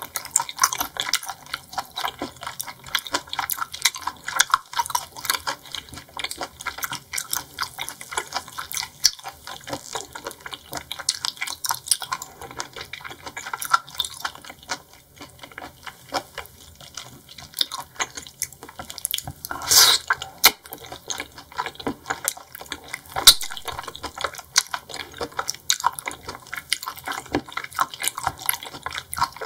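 Close-miked, wet chewing and squelching of seafood: a dense, irregular run of sticky clicks and smacks, with a louder wet burst about two-thirds of the way through and a sharp click soon after.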